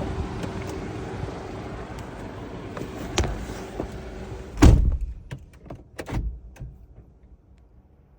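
Steady outside noise, then about halfway through a vehicle door shuts with a heavy thump and the outside noise is cut off, followed by several small clicks and knocks.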